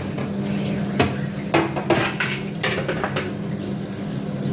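Kitchen clatter: several separate knocks and clinks of utensils against pots and dishes, over a steady low hum.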